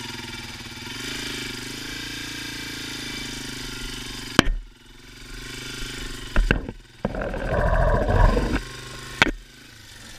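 Yamaha TW200's air-cooled single-cylinder four-stroke engine idling steadily. A sharp knock comes about four seconds in, after which the sound is quieter, with a louder rough noise lasting about a second and a half near the end.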